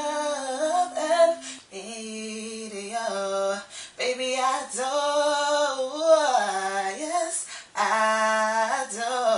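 A woman singing wordless runs: held notes with the pitch sliding up and down between them.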